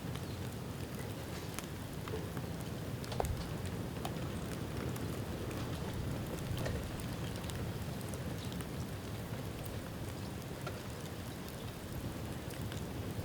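Dry bamboo burning in an open bonfire: a steady rush of flame with scattered crackles and small pops, one sharper crack about three seconds in.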